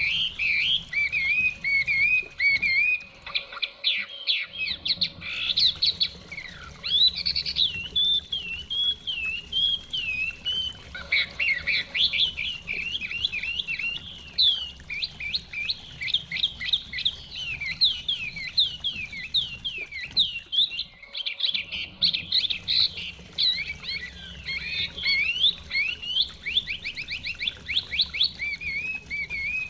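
Chinese hwamei (họa mi) singing a long, varied song of rich whistled phrases and rapid trills, over a faint low rush of stream water. The song breaks off briefly about four seconds in and again around twenty-one seconds.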